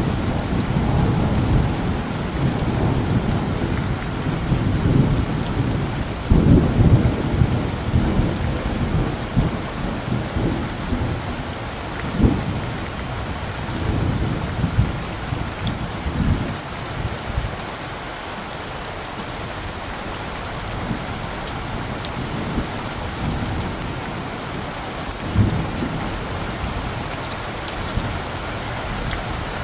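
Steady rain falling, with fine patter throughout and rolling thunder rumbling low through the first half. The thunder is loudest about six seconds in, then dies away, leaving the rain alone with one more brief low rumble near the end.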